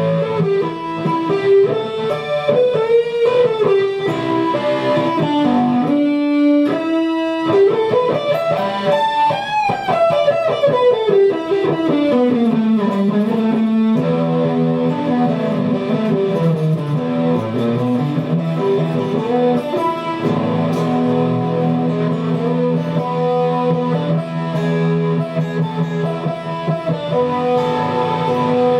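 Guitar music: a plucked guitar playing a melodic line over held low notes, with a long pitch slide rising and then falling about eight to thirteen seconds in.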